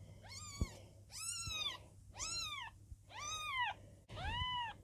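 Young Birman kitten, about twelve days old, mewing: five high calls in a row, each rising then falling in pitch, about one a second.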